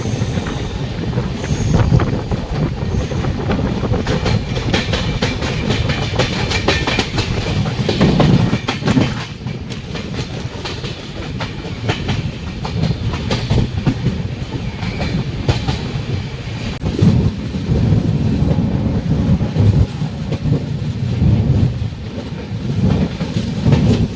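A train's coaches rolling past with a steady rumble and a rapid clickety-clack of wheels over rail joints; it eases off briefly about nine seconds in, then picks up again.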